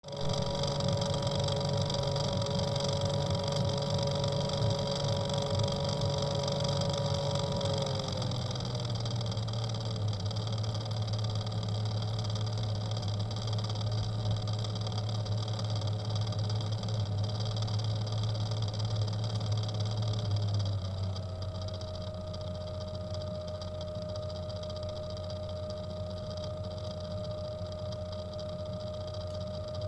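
Aqua Computer high flow NEXT flow sensor rattling in a running PC water-cooling loop, over the steady whine of the pump; the rattle is the fault being shown. The pitch shifts down about 8 seconds in and shifts again about 21 seconds in, where the sound gets slightly quieter.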